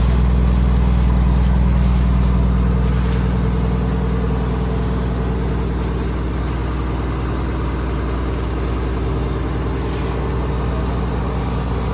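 A fishing boat's diesel engine running steadily, a deep drone with a thin, steady high whine above it.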